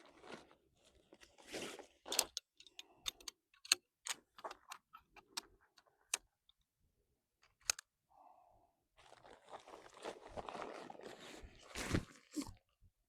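Camping gear being handled while a tent is pitched. First comes a string of sharp clicks and knocks. Then there is a longer rustling scrape with a louder knock near the end.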